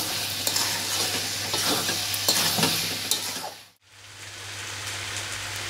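Spatula stirring and scraping fried potato pieces and soya chunks through hot masala in a metal pan, over a steady sizzle of frying: the sauté (kasha) stage of a soya chunk and potato curry. The sound cuts out briefly about two-thirds of the way in, then the sizzle carries on without the scraping.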